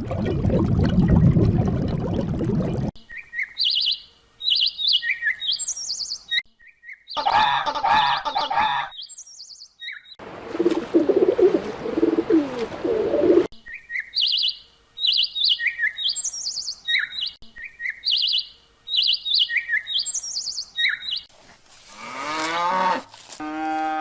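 A songbird singing phrases of short, repeated high chirps, heard in two long runs, with brief stretches of other animal sounds between them. Near the end a cow starts mooing.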